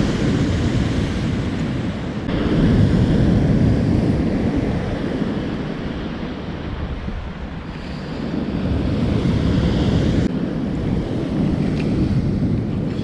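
Waves breaking on a sandy surf beach, the wash swelling and fading every few seconds, with wind buffeting the microphone.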